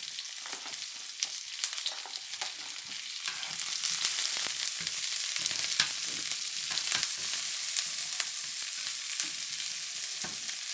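Oil sizzling as chopped red onions fry with garlic and ginger in a pan and are stirred, with scattered clicks of the stirring utensil. The sizzle grows louder about four seconds in.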